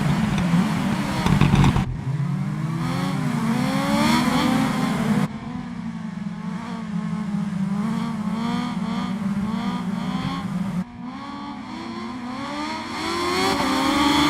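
Kawasaki Ninja H2's supercharged inline-four engine revving and accelerating, its pitch rising and falling, with abrupt cuts between takes about 2, 5 and 11 seconds in. Near the end the engine climbs steadily in pitch and gets louder.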